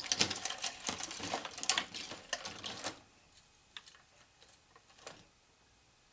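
Small hard craft pieces clattering and clicking as they are rummaged through by hand, busy for about three seconds and then a few separate clicks.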